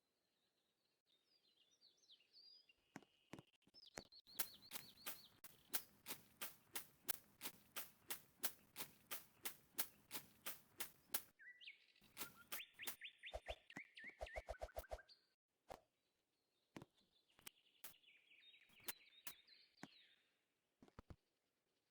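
Birds chirping and trilling, with a long run of sharp clicks at about three a second in the middle, then a quicker burst of pulses.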